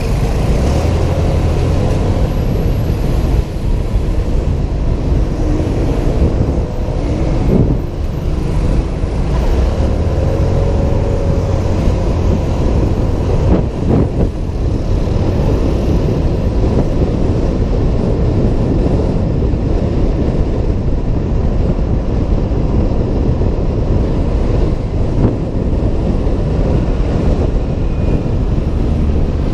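Honda PCX 125 scooter riding through city traffic: steady engine, road and traffic noise picked up by a helmet-mounted camera.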